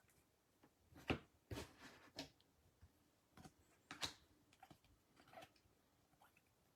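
Faint, scattered rustles and clicks of trading cards being handled and flipped through by hand, about half a dozen short strokes.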